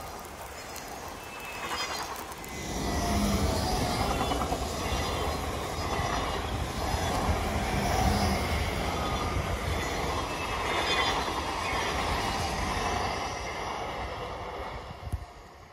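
An RER D electric commuter train passing, its rumble and rail noise swelling about two to three seconds in and holding for some twelve seconds before dying away near the end. A short sharp knock comes just before it fades.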